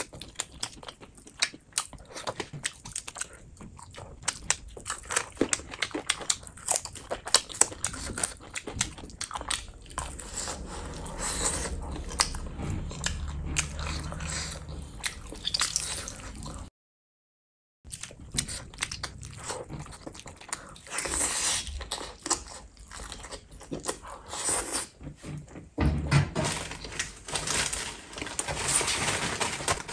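Close-miked eating sounds: wet chewing and lip-smacking of chicken drumstick and gravy rice eaten by hand, with dense clicks and squelches. The sound cuts out completely for about a second just past the middle.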